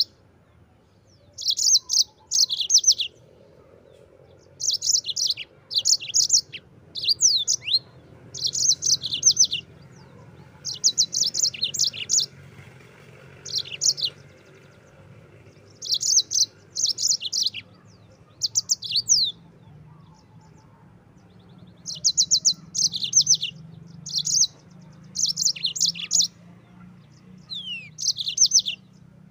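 Yellow-fronted canary (Mozambique bird) singing in short phrases of fast, high trills and quick downward-sliding notes, repeated every second or two with brief pauses between them.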